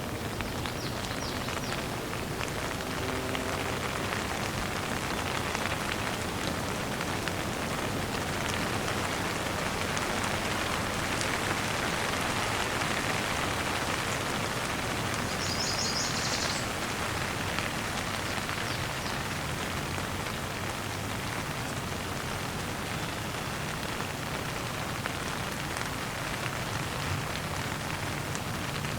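Steady rain falling on surfaces: an even hiss of many drops, with a brief high-pitched chirp about halfway through.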